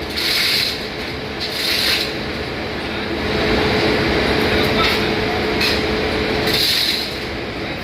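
Steady, loud machinery noise of a ship's engine room, with a short hissing rasp about every second and a half and a steady hum for a few seconds in the middle.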